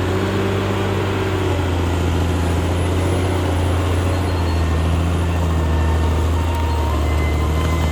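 Caterpillar D6R XL bulldozer's diesel engine running steadily as a deep, even drone, with a faint thin whine coming and going above it.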